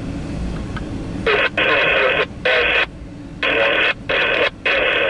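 Harsh radio static from a handheld or scanner radio, coming in about six loud bursts of uneven length, starting about a second in.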